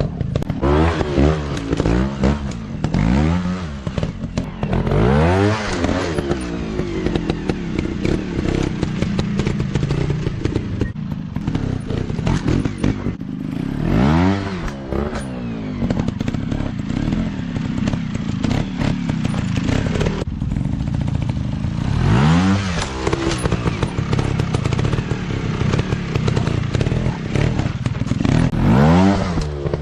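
Dirt bike engines revving hard and falling back again and again, in quick clusters of throttle blips near the start, about halfway, and twice more late on, with engines running more steadily in between.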